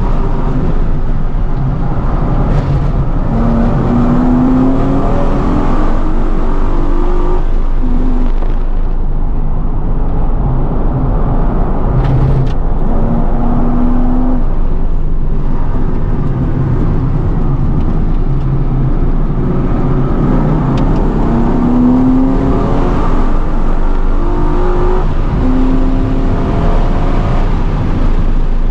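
Holden VE SS Commodore ute's 6.0-litre V8 under hard acceleration, heard from inside the cabin. Its pitch climbs several times as it pulls through the revs, with brief lulls in between.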